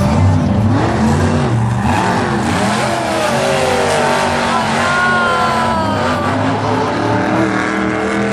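Monster truck engines revving hard on a racing pass, their pitch rising and falling.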